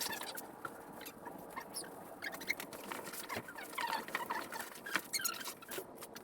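Foam packing and cardboard squeaking, rubbing and scraping in short irregular bursts as a foam-wrapped outboard motor is worked into a cardboard box.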